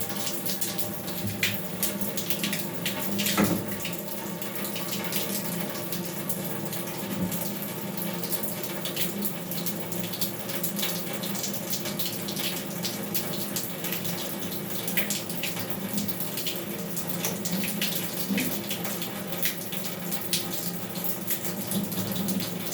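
Water running steadily from a tap, splashing, with a single knock about three and a half seconds in.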